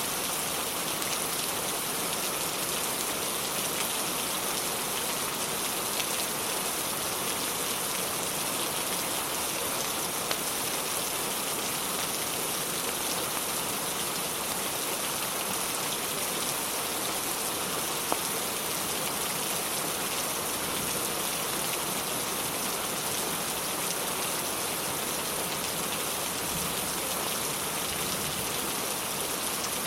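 Steady rain falling, an even hiss of drops without a break, with a couple of brief sharp clicks.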